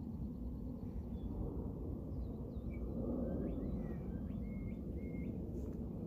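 Faint bird calls, short chirps and a run of hooked whistled notes in the middle, over a steady low rumble.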